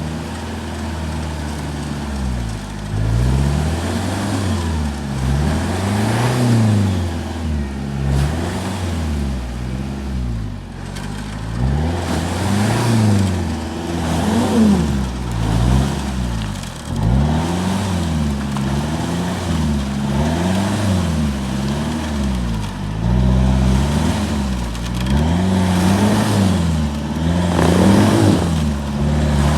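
Toyota Land Cruiser Prado's engine revving up and falling back over and over, about every one to two seconds, as the SUV sits stuck in the forest track and tries to drive free.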